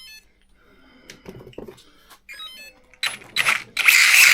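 Arrma Granite Grom RC truck's brushless motor and speed controller giving short runs of beeping tones, with a few clicks, as it is tried after cutting out; the speed controller has hit its thermal cutoff. Near the end, a loud steady rushing sound comes in.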